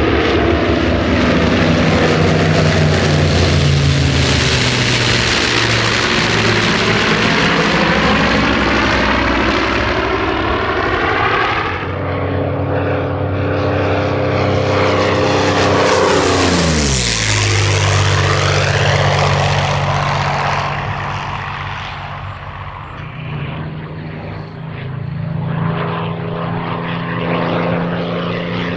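Propeller fighter plane with a liquid-cooled V-12 piston engine making a low pass. The engine drone rises to a peak and then drops sharply in pitch about halfway through as the plane goes by. It then dips and builds again near the end.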